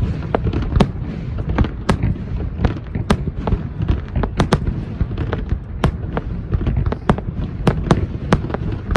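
Aerial fireworks display bursting in a rapid, irregular string of sharp bangs, several a second, over a continuous low rumble.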